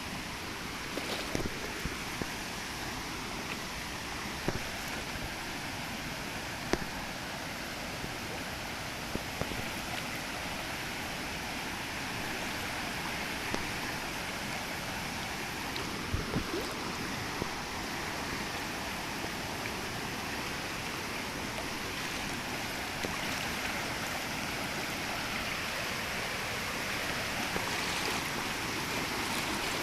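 Stream water flowing steadily, with a few short, sharp clicks now and then.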